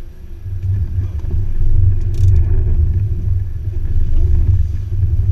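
Off-road 4x4 engine running under load with a heavy, steady low rumble as the vehicle climbs a rough dirt track. There is one sharp knock about two seconds in.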